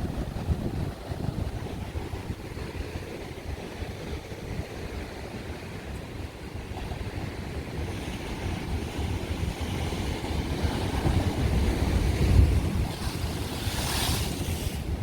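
Ocean surf breaking and washing on a beach, with wind buffeting the microphone; the surf builds toward a louder wave that hisses in near the end.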